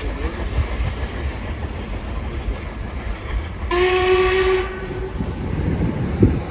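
Steam locomotive whistle blown once, a single steady note lasting about a second, a little under four seconds in, over a continuous low rumble.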